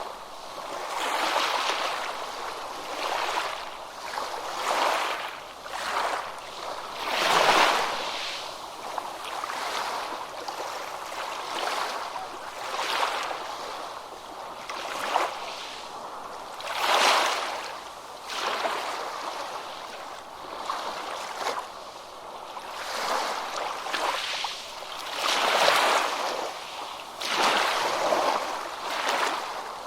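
Ocean surf breaking on a beach in repeated surges a few seconds apart, with three bigger waves crashing louder than the rest.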